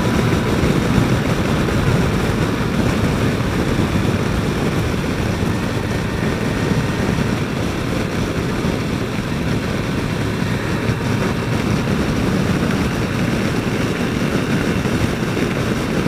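Steady wind rush on a helmet microphone over the running of a Yamaha FJR1300 motorcycle's inline-four engine, held at a steady speed while riding.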